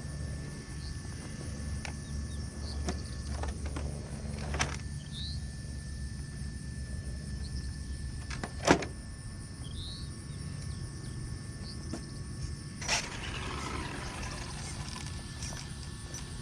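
Outdoor background with a steady low rumble and a few sharp knocks or clicks, the loudest about two-thirds of the way through, with faint short chirps now and then.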